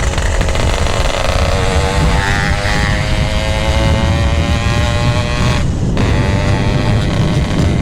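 Yamaha RX-King's two-stroke single-cylinder engine running through a GRT18 aftermarket exhaust, the pitch climbing steadily as it pulls, then breaking off for a moment about six seconds in before it picks up again.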